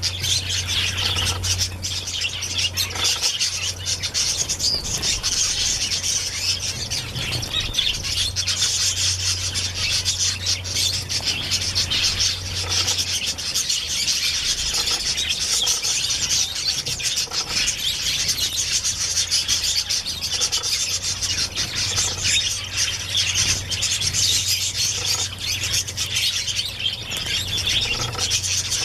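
Many small birds chirping at once in a dense, unbroken chatter of high chirps. A low steady hum runs underneath, stronger in the first half.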